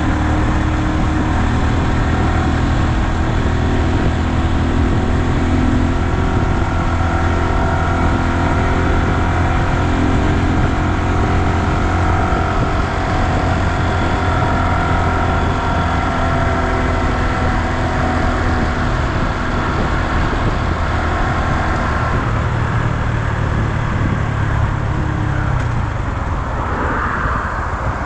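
2020 Honda Super Cub's single-cylinder engine running under way, with wind noise on the microphone and road noise, steady throughout.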